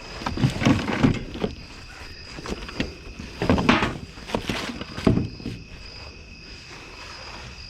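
Rummaging through trash in a dumpster: irregular rustling and knocks of items being handled and moved, with a steady high insect tone in the background.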